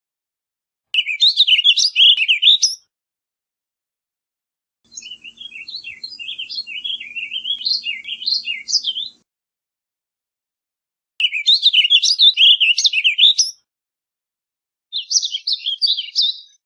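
Warbling vireo singing: four rambling, warbled phrases of quick up-and-down notes, each two to four seconds long and separated by silent gaps. The second and longest phrase is quieter, with a faint low hum beneath it.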